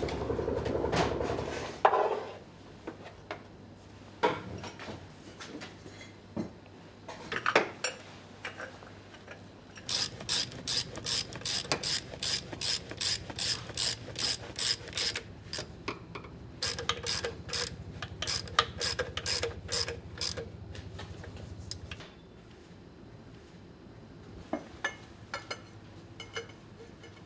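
A power tool running, stopping about two seconds in; then scattered knocks and two long runs of evenly spaced mechanical clicks, like a ratchet, about two or three a second.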